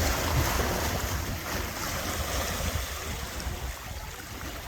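Ocean surf washing against jetty rocks, with wind rumbling on the microphone; the wash eases off and grows quieter toward the end.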